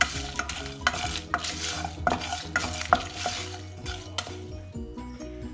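Wooden spatula stirring and scraping whole spices dry-roasting in a nonstick frying pan, strokes a little over two a second, with background music underneath. The stirring stops about four seconds in, leaving only the music.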